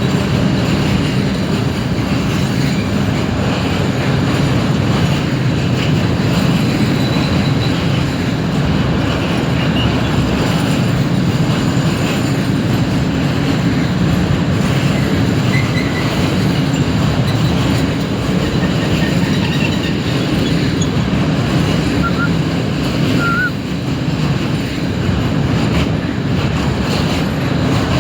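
Train running through a railway station: a steady rumble of wheels on the rails, with a few brief, faint wheel squeals past the middle.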